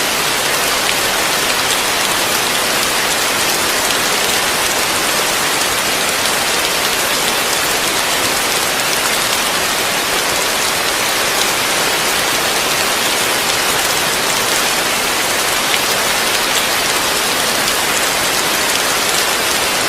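Heavy rain falling steadily on a roof: a dense, even hiss of countless drops that holds at the same level throughout.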